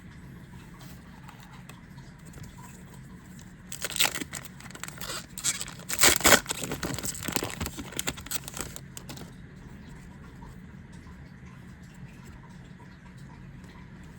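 Yu-Gi-Oh! booster pack's foil wrapper being torn open and crinkled: a burst of rustling starts about four seconds in, is loudest a couple of seconds later and dies away by about nine seconds.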